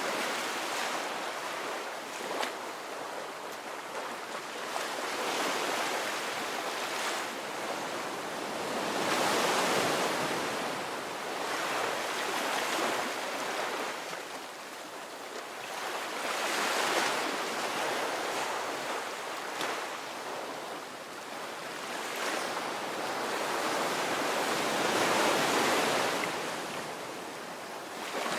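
Ocean surf breaking and washing up a beach, a steady hiss of water that swells with each wave every few seconds.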